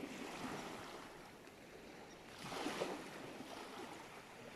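Soft sea surf washing on a shore, with some wind; the wash rises briefly louder about halfway through.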